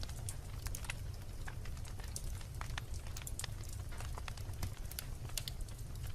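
Wood fire burning in a fireplace: logs crackling with many small irregular pops over a steady low rumble of the flames.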